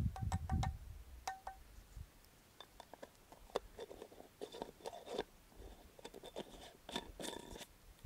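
Light clicks and small clinks of objects being handled, some ringing briefly like metal, mixed with short scraping and rubbing sounds.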